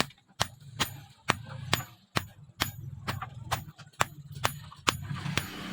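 Hammer blows on steel, about two a second at an even pace, each with a bright metallic ring, typical of forging leaf-spring steel on an anvil. A low steady hum runs underneath.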